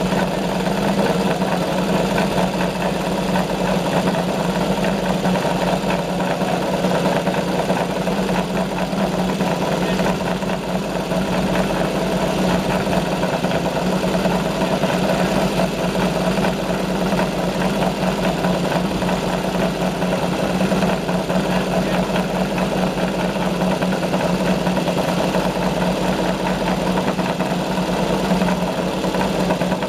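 2014 PBM Aprilia MotoGP race bike's V4 engine idling steadily while warming up.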